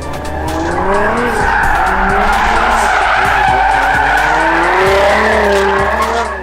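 A car's tyres screeching in a sustained burnout, most likely donuts, with the engine revving up and down underneath. It swells about a second in and cuts off sharply near the end.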